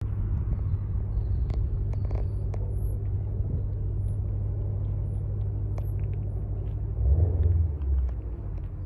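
A Mini Cooper S engine idling as a steady low rumble, swelling louder for about a second around seven seconds in.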